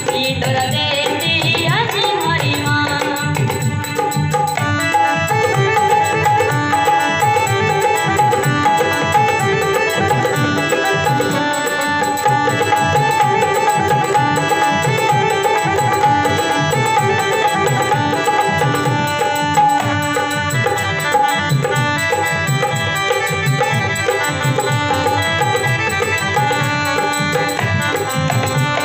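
Rajasthani folk music played as an instrumental interlude: a steady hand-drum rhythm with rattling percussion under long sustained melody notes.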